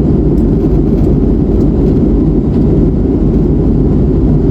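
Steady, loud low rumble inside the cabin of an Airbus A321neo in flight, from its Pratt & Whitney PW1100G geared turbofan engines and the airflow over the fuselage.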